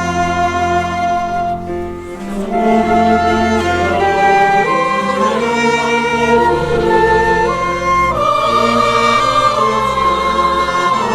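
Music: a choir singing with bowed strings, in long held notes that change every second or so.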